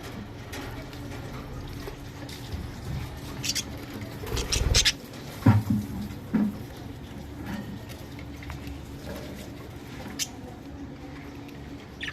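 Budgies pecking and nibbling at food: irregular small clicks and scratches, busiest about four to six seconds in.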